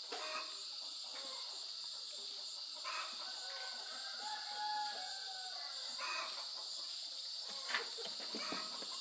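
Steady high-pitched drone of an insect chorus, with a few faint calls from other animals in the middle.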